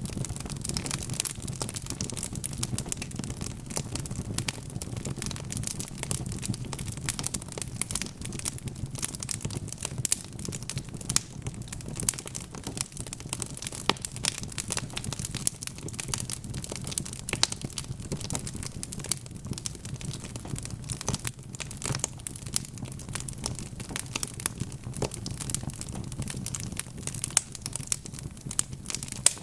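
Wood fire crackling in a fireplace: a dense, steady stream of small pops and snaps over a low rumble of the burning logs, with a few louder pops scattered through.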